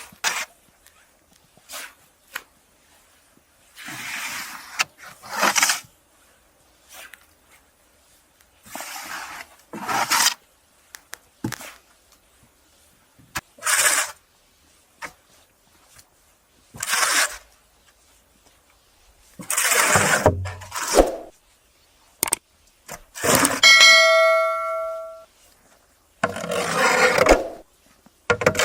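Irregular strokes of scraping or rubbing, a dozen or so, and a little after three-quarters of the way through one sharp metallic clang that rings on for about a second and a half.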